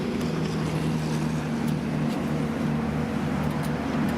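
Harley-Davidson Street Glide's 103-cubic-inch fuel-injected Twin Cam V-twin idling steadily through a Vance & Hines X-pipe and Rinehart slip-on mufflers.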